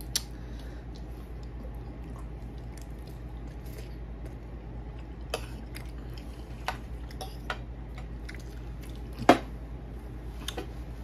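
Close mouth sounds of a person eating: scattered wet clicks and smacks of chewing, the sharpest about nine seconds in, over a steady low hum.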